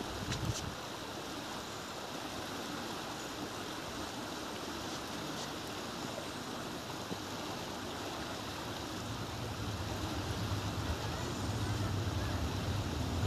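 WAP4 electric locomotive-hauled passenger train approaching over a steel bridge: a low rumble that starts about two-thirds of the way in and grows steadily louder, over a steady outdoor hiss.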